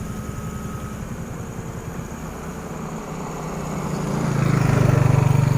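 A vehicle engine running with a rapid low pulse, growing louder about four seconds in.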